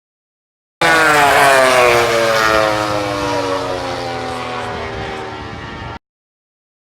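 MotoGP racing motorcycle passing at top speed, its engine note sliding steadily down in pitch and fading as it speeds away. It starts suddenly about a second in and cuts off abruptly near the end.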